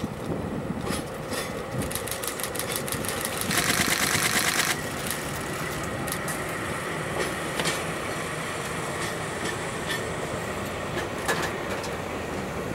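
A DE10 diesel-hydraulic locomotive passing at low speed with a rake of towed, unpowered electric-train cars, the wheels clicking over rail joints under a steady rolling noise. A loud hiss sounds for about a second, starting about three and a half seconds in.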